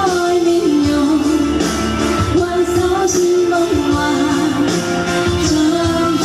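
A young woman singing a pop song in a sweet voice over a backing track with a steady beat.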